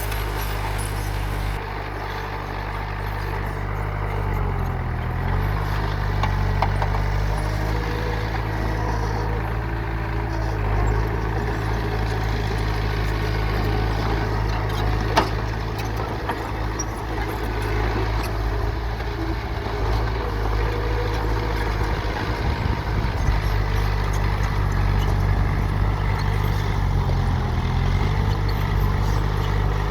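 Engines of dump trucks and a bulldozer running steadily, their pitch dipping briefly a few seconds in and again near the end, with one sharp click about halfway through.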